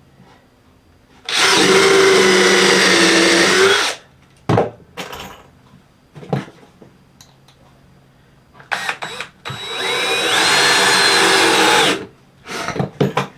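Power drill/driver running in two bursts of about two and a half seconds each, sinking 3-inch screws deep into the wooden top, below the surface, to leave room for plugs. A few short knocks come between the bursts.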